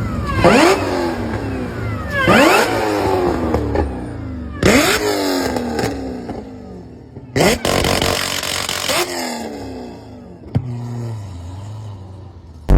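An engine revved in about four sharp throttle blips, each a fast rise in pitch that then falls back toward idle, the later revs quieter.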